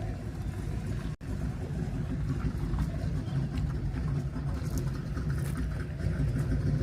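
Steady low rumble of a car engine running, with the sound cutting out for an instant about a second in.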